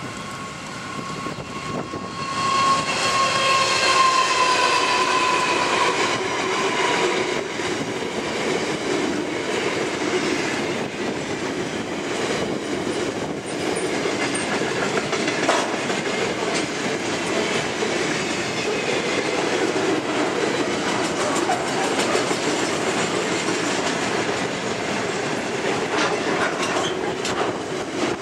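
Two NR class diesel-electric locomotives pass close by under load on a climb, their sound dropping in pitch as they go by in the first few seconds. A long loaded steel freight train follows, rolling past with a steady wheel rumble and clickety-clack over the rail joints.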